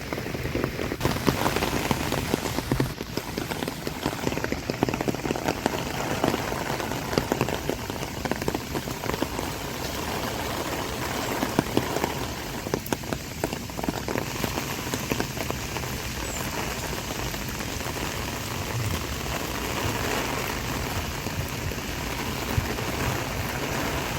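Heavy typhoon rain: a dense spatter of drops hitting, thick with sharp hits for the first half, then settling into a steadier hiss.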